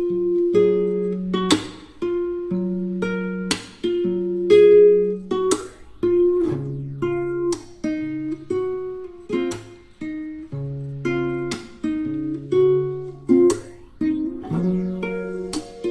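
Background music: a plucked string instrument picking single notes in a gentle, repeating melodic pattern.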